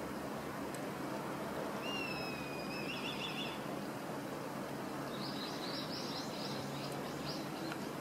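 Small bird calling twice over steady background noise. First a long, thin whistle that falls slightly and breaks into a wavering trill; a couple of seconds later comes a quick run of higher, sharp notes.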